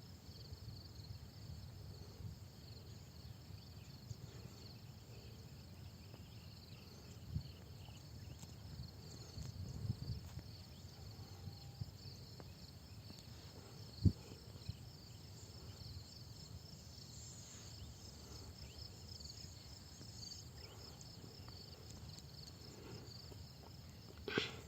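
Insects chirring steadily in a faint, high, finely pulsing drone, over a low rumble. A single sharp knock comes about halfway through.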